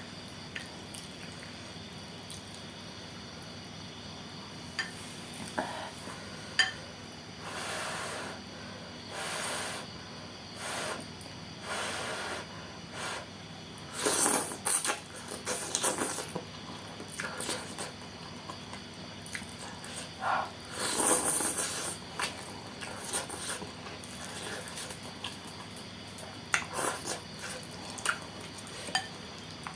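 Close-up eating of saucy noodles: wet slurps and squishy chewing in several bursts, the loudest about halfway and two-thirds of the way through, with sharp clicks of cutlery against the bowl now and then.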